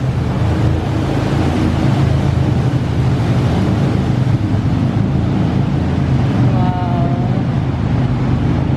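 Whirlpool jet boat's engine running with a steady low drone, under a loud rush of noise.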